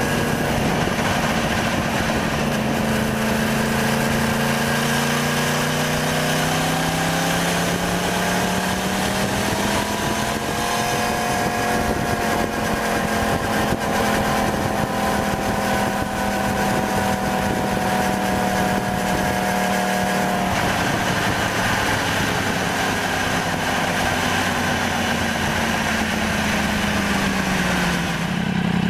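2015 Yamaha R1's crossplane inline-four engine running on the road, heard through a bike-mounted microphone with wind rush throughout. Its pitch climbs steadily from about four to ten seconds in as the bike speeds up, holds steady, then drops at about twenty seconds in and eases lower. The sound changes abruptly near the end.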